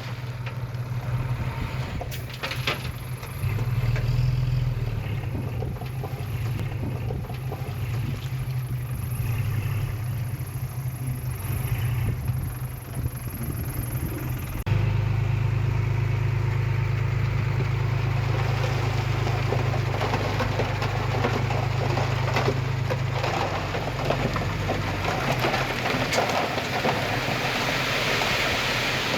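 Heavy diesel earthmoving machinery running steadily with a low engine drone. It becomes abruptly louder about halfway through.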